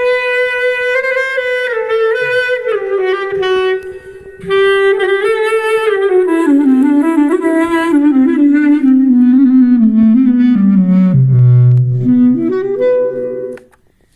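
A solo melody in a clarinet-like tone from a Zoom B1Xon effects unit. There is a short break a few seconds in. The line then steps down to a low held note, climbs back up briefly, and stops just before the end.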